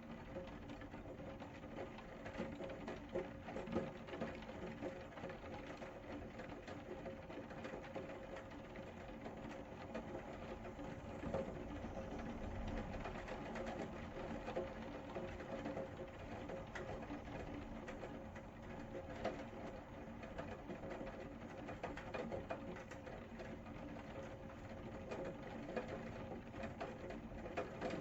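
Rain falling steadily, a dense spatter of small drop ticks over a constant wash, with a faint steady hum underneath.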